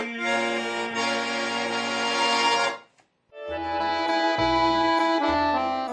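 Accordion playing sustained chords as the instrumental close of a Russian folk song. Partway through it stops briefly, then sounds a final held chord over bass notes.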